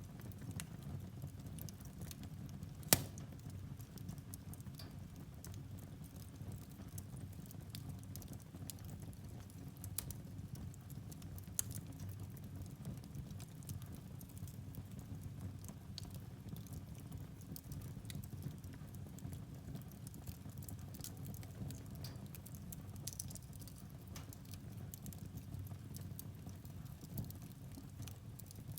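Firewood logs burning in a fireplace, a steady low rumble of flame with scattered crackles; one sharp pop about three seconds in is the loudest.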